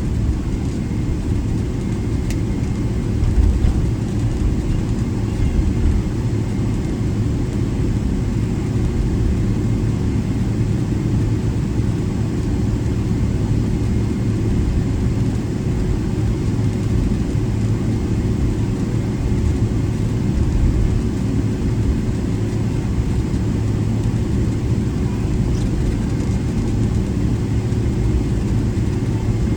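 Inside the cabin of a Boeing 777-300ER taxiing after landing: the steady low rumble of its GE90 engines at taxi power and the airframe rolling over the taxiway, with a steady hum tone.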